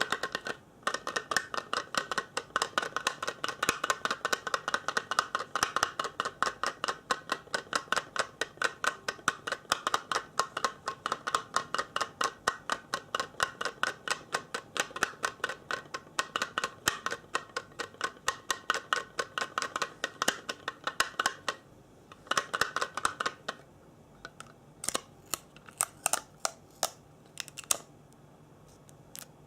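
Rapid, regular clicking close to the microphone, about four or five clicks a second, carrying on for about twenty seconds. A short burst of clicks follows, then a few scattered clicks near the end.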